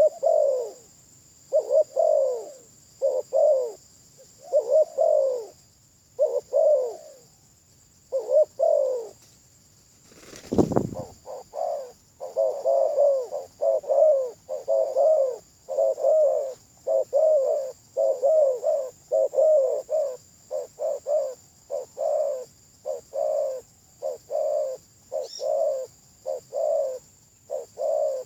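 Spotted dove cooing over and over in short phrases, slower at first and then coming faster, about twice a second, for the second half. A single low thud about ten seconds in, and a steady high hiss behind.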